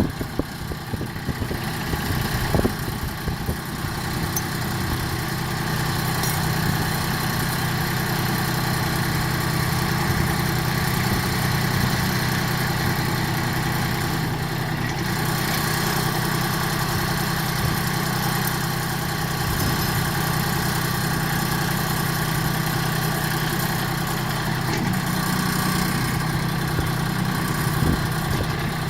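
Compact tractor's three-cylinder diesel engine idling steadily. A single sharp knock comes about two and a half seconds in.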